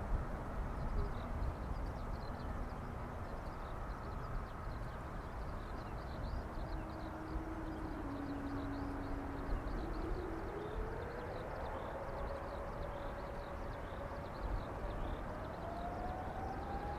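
Airliner's engines spooling up for takeoff: a whine that holds low, then rises steadily in pitch through the second half, over a steady low rumble.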